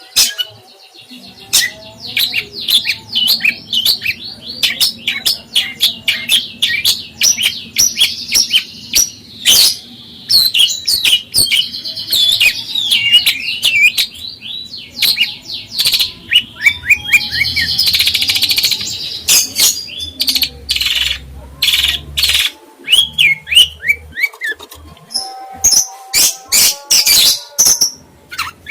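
Songbird singing a fast, varied chattering song of short chirps, trills and whistles, with many sharp ticks mixed in.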